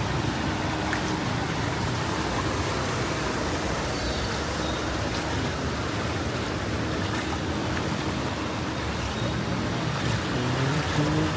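Street ambience on a flooded city street: a steady wash of water and traffic noise, with a vehicle engine growing louder briefly near the end.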